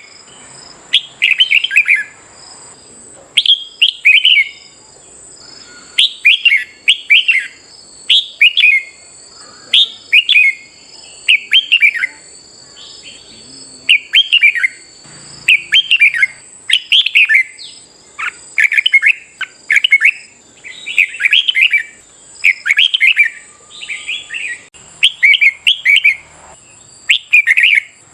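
Red-whiskered bulbul singing: short, bright phrases of quick rising and falling notes, one after another a little under once a second, with a faint steady high whine behind.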